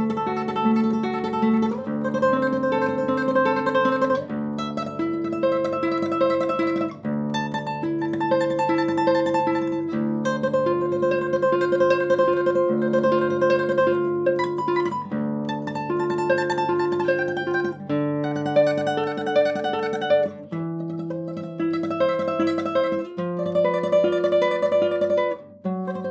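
Solo classical guitar playing a tremolo melody: rapidly repeated high notes over a moving bass line, in phrases with brief breaks.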